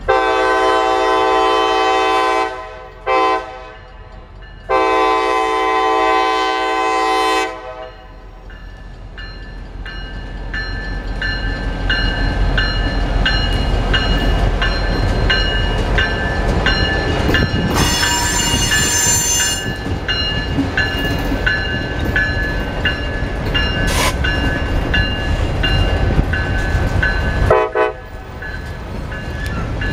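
Diesel freight locomotive's air horn sounding a long blast, a short one and another long one. The locomotive's engine then rumbles past, followed by freight cars rolling by with steady wheel clatter, and about two-thirds of the way in the wheels give a brief high squeal.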